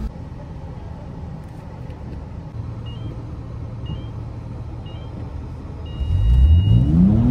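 A BMW E46 328Ci's straight-six engine idles low while a start timer gives three short beeps a second apart and then one long beep. With the long beep, about six seconds in, the engine revs hard and climbs in pitch as the car launches from the start line.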